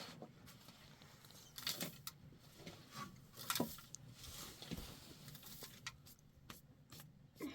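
Faint scattered clicks and light knocks, a few of them spread a second or so apart, over a low background hiss.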